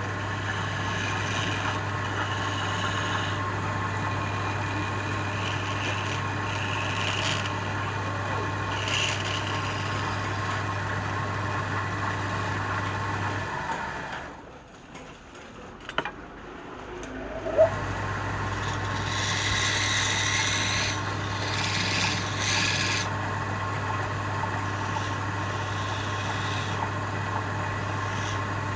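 Wood lathe motor running with a steady hum while a turning tool scrapes and cuts the spinning wood in uneven bursts. The hum stops for a few seconds about halfway through, then starts again, with a louder spell of cutting just after.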